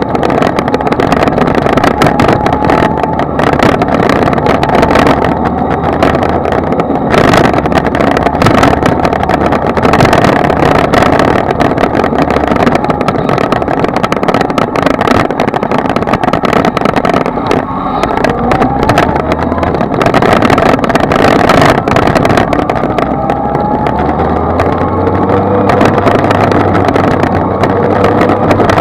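Kawasaki Z1000 motorcycle's inline-four engine running under way, buried in a dense rush of wind and road noise. The engine note glides up and down a few times in the second half as the revs change.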